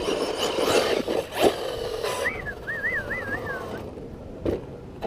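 Electric RC monster truck running over dirt: a rushing scrabble with a few sharp knocks for about two seconds, then a wavering whistle-like tone for about a second and a half, and one more knock near the end.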